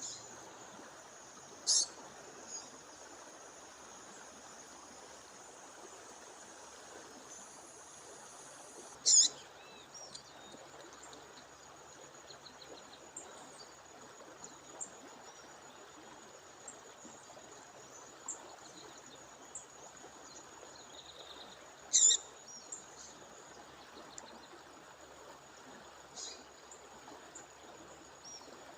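A female bird calling over the steady rush of a waterfall: three loud, short, sharp high calls about 2, 9 and 22 seconds in, with a few fainter notes between. A thin, high, unbroken tone runs beneath.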